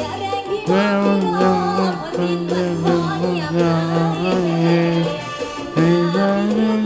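A girl singing a Thai folk-pop song over band backing, holding long notes with bends and slides between them.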